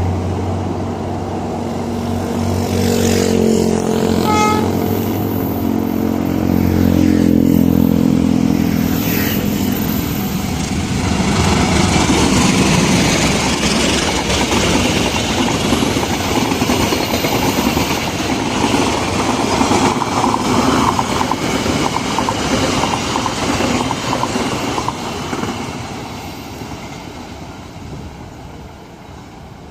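A GE-built CC 203 diesel-electric locomotive passes close by, its diesel engine note strong for the first ten seconds or so. The carriages then roll by with a steady rumble and clatter of wheels on the rails, fading away near the end.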